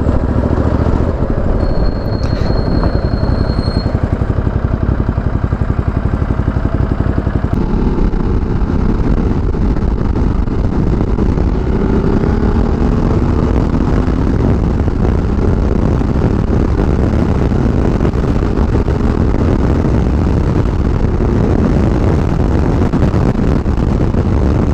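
Ducati Multistrada 1200S L-twin engine under load, heard through steady wind rush on a helmet microphone as the bike picks up speed; the engine note rises in pitch now and then through the middle.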